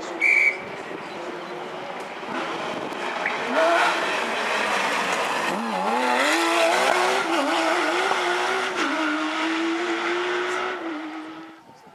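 Rally car engine accelerating hard, its pitch climbing and dropping again with each gear change, then holding and fading as the car goes off into the distance. A short high beep sounds just after the start.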